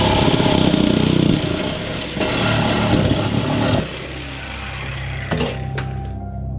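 Engine sound revving loudly for about four seconds, then dropping to a steadier, quieter running hum, with a few sharp metallic clicks near the end.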